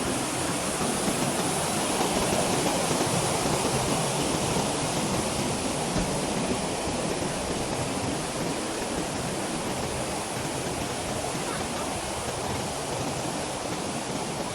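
Steady rushing of a waterfall, an even unbroken roar of falling water with no let-up.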